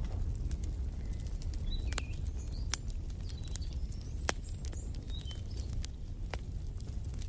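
Wood fire crackling, with scattered sharp pops over a steady low rumble. Short bird chirps come in about two seconds in and stop before the end.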